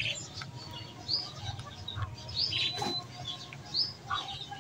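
Small birds chirping: short, high chirps repeating roughly once a second.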